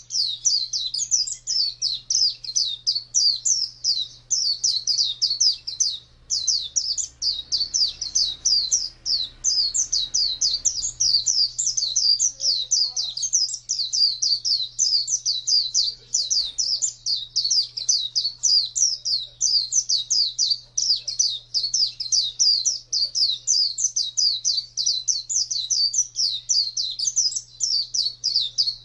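White-eye (pleci) singing a long, fast, high twittering song of many short gliding notes run together almost without a break, with one short pause about six seconds in.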